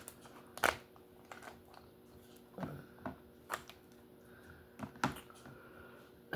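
Lobster tail being eaten and picked at: about half a dozen sharp, irregular clicks and cracks of shell and mouth sounds, the loudest under a second in.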